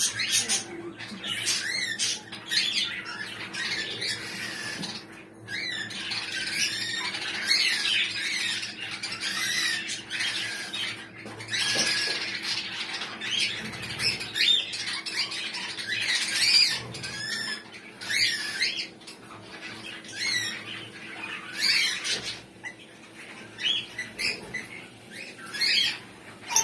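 Baby lory parrots squawking and chirping in many short, high calls, one after another with little pause.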